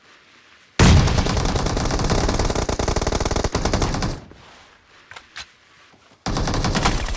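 Video-game automatic gunfire: a burst of rapid shots begins about a second in and lasts some three seconds, then after a pause with a couple of faint clicks a second burst starts near the end.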